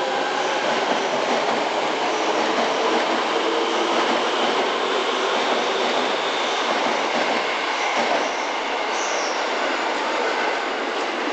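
Hankyu electric trains running on the station tracks: a steady rumble and rattle of wheels on rail, with a faint motor whine fading out at the start and a brief high wheel squeal about nine seconds in.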